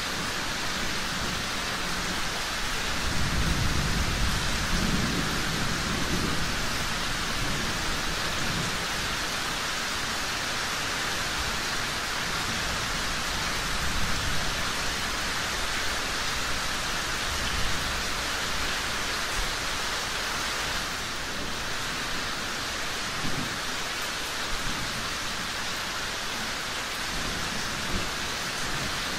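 Steady heavy rain, with a low roll of thunder swelling and fading about three to seven seconds in, and a few brief sharp pops later on.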